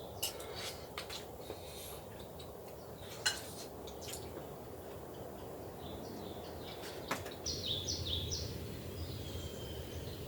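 A bird chirping a quick series of short high notes near the end, over a steady low hiss. A few sharp clicks and taps come in the first half and once more just before the chirping.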